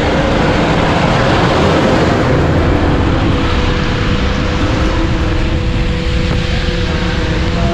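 Motorcycle engine running steadily under way, with wind rushing over the camera microphone.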